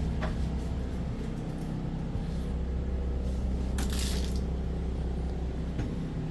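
Pulsar 4000-watt inverter generator's engine running steadily under load from an air conditioner, a constant hum. A brief rustle or hiss about four seconds in.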